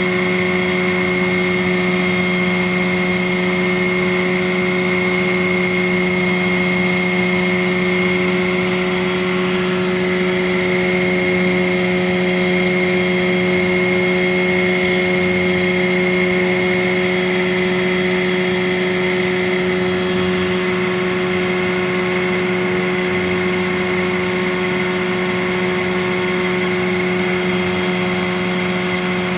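Engine of construction machinery running at a steady, unchanging speed: an even hum with a thin high whine over it.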